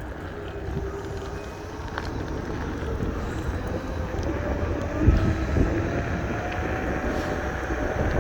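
Kaabo Wolf Warrior X Pro electric scooter being ridden. A thin motor whine rises slowly in pitch as the scooter gains speed, over a steady rush of wind and road rumble, with a few low thumps about five seconds in.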